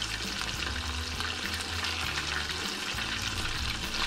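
Chicken karaage pieces deep-frying in hot oil: a steady sizzle with fine crackling and popping as the oil spits, over a low steady hum.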